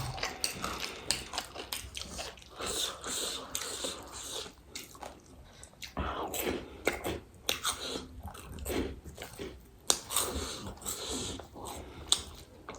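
Close-miked chewing and crunching of crisp, spicy street snacks, with irregular sharp crunches and wet mouth clicks coming in clusters.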